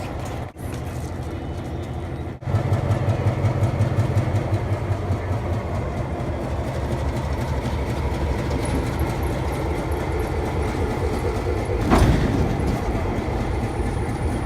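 Train running on the rails, a steady rumble with a fast, even pulsing that gets louder about two and a half seconds in, and a single loud knock about twelve seconds in.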